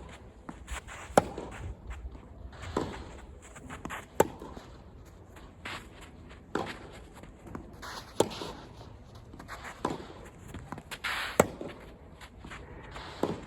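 Tennis rally: sharp racket-on-ball hits every three to four seconds, with softer ball bounces on the court between them.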